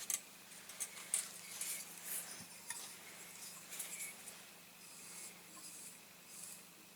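Irregular light scrapes and small ticks of hand tools working a diecast model while water-slide decals are pressed and flattened onto it, with the sharpest clicks in the first couple of seconds.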